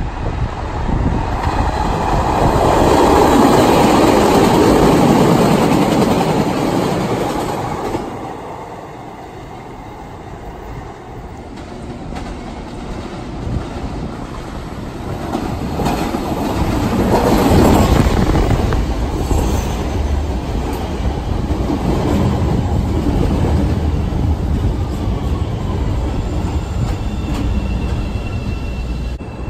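Chicago CTA elevated rapid-transit trains with steel wheels clattering over the rails: one train passes, loudest about four seconds in and fading by about eight seconds, then another comes in, loudest near seventeen seconds, and a 5000-series train stands at the platform with its doors open near the end.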